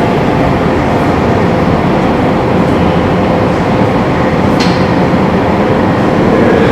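Wind blowing across metal roofing, a loud steady rumbling noise with a faint droning hum in it. A brief sharp metallic tick sounds about four and a half seconds in.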